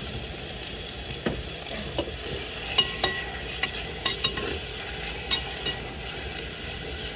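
Chicken frying in garlic oil in a pan, a steady sizzle, with a utensil clinking against the pan half a dozen times as the meat is stirred and turned.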